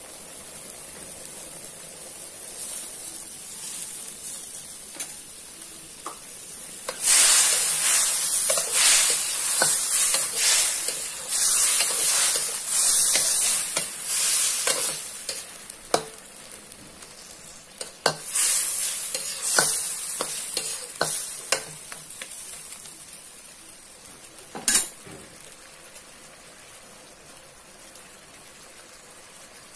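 Roast duck and chicken frying in a wok, sizzling loudly in spells as they are stirred, with the spatula clicking and scraping against the wok. A single knock comes near the end, and after it the frying settles to a quieter sizzle.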